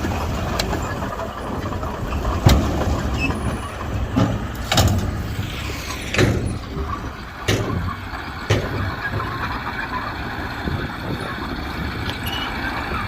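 Diesel engine of earthmoving machinery running steadily, with about six sharp knocks and clanks spread through the middle, as of a dozer working soil.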